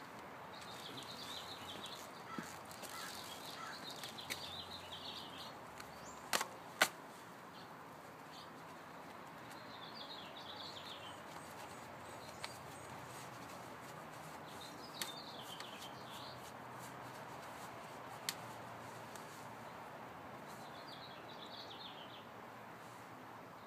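Small birds chirping in short bursts every few seconds over a steady outdoor background hiss. Two sharp clicks close together about six and a half seconds in are the loudest sounds, with a few fainter ticks scattered through.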